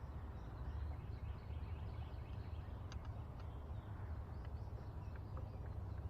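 Birds chirping faintly over a steady low rumble, with a few light clicks.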